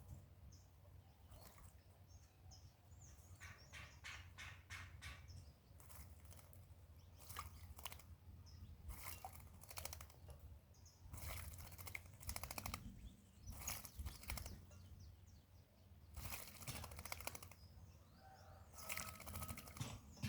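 Pale-breasted thrush bathing: short bursts of splashing and wing-fluttering in water, about seven times, each under a second or so, with faint bird chirps in the background.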